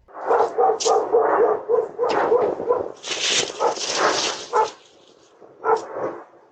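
Dog barking in a quick run of short barks, then a louder, rougher burst of barking, and one more bark near the end.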